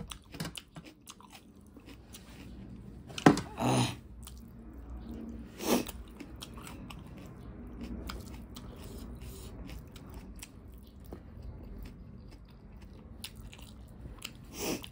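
A person chewing a mouthful of spicy instant noodles, with soft wet mouth sounds and small clicks. A few louder sharp mouth noises come about three to four seconds in and again near six seconds.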